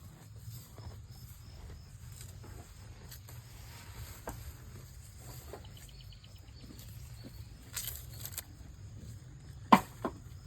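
Quiet rural outdoor ambience: a steady low rumble with scattered faint ticks and rustles, then a sharp loud snap near the end followed by a smaller one.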